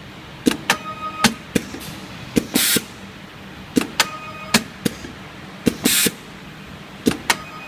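Automated ribbon-wire PCB soldering machine cycling: sharp clicks and knocks from its moving parts, and a short hiss of air about every three seconds.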